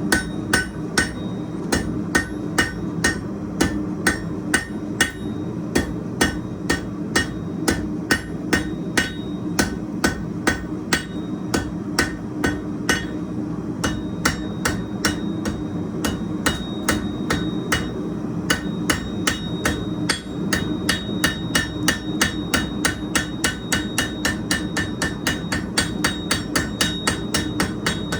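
Hand hammer striking hot steel on an anvil in a steady rhythm as the end of a hook bar is drawn out to a point. About two blows a second at first, briefly pausing about halfway, then quickening to about three a second. A steady roar from the gas forge runs underneath.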